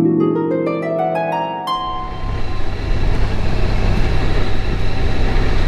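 Harp music plucking a rising run of notes, which about two seconds in cuts sharply to the steady running noise of a Honda VFR1200X Crosstourer motorcycle on the move.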